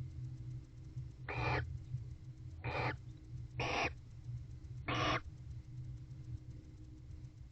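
Barn owl giving four short, harsh screeching calls, roughly a second apart.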